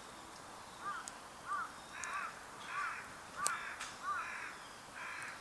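A crow cawing over and over, about seven harsh caws at an even pace starting about a second in, with a few faint sharp ticks between them.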